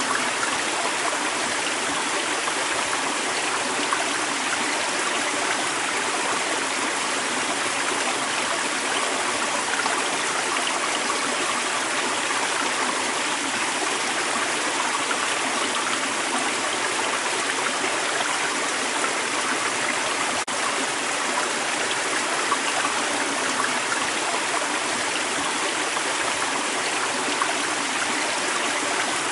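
A creek running steadily, its water babbling and splashing over rocks. There is one brief click about twenty seconds in.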